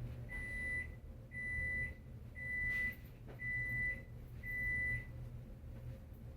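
Microwave oven beeping five times at the end of its one-minute cycle: a steady single-pitch tone of about half a second, repeated about once a second.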